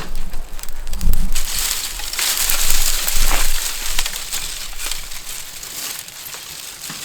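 Dry weeds and brushwood crunching and rustling as they are crushed and stuffed into a stove's firebox, with a few sharp snaps. The noise is loudest in the first few seconds and dies down toward the end.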